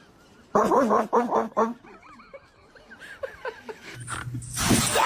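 A cat vocalising in a string of short, wavering calls. A burst of noise comes near the end.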